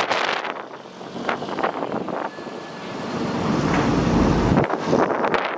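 Heavy earthmoving machinery working, its engine noise mixed with wind on the microphone, swelling about three and a half seconds in and changing abruptly near the end.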